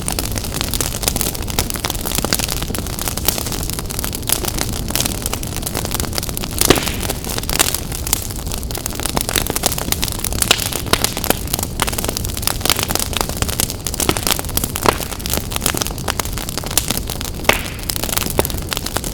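Fire in a fireplace crackling, with frequent sharp pops and snaps of varying loudness over a steady low rushing noise.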